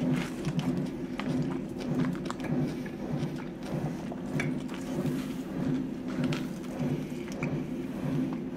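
A person chewing a mouthful of pork belly wrapped in a leaf (ssam), close to the microphone: soft wet mouth sounds that pulse about once a second, with small clicks. A steady low hum runs underneath.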